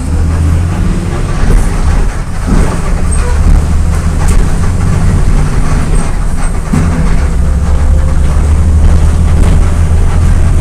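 Volkswagen Volksbus 17.230 EOD bus's diesel engine running under way with a strong, steady low drone. The drone dips briefly twice, about two and a half and seven seconds in.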